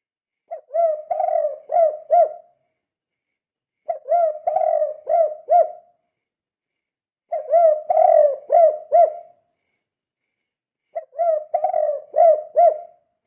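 Spotted dove (tekukur) cooing in the 'kuk 2' song style: four song phrases, each a quick run of several short coos lasting about two seconds, repeated about every three and a half seconds.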